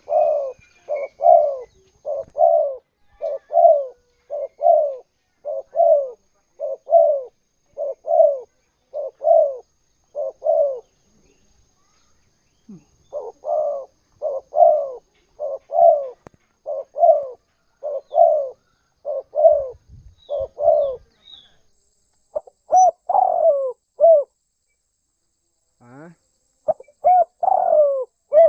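Spotted dove cooing in runs of short, evenly spaced notes, about two a second. A run of around eleven notes is followed by a pause of a couple of seconds and a second run, then a few longer, more drawn-out coos near the end.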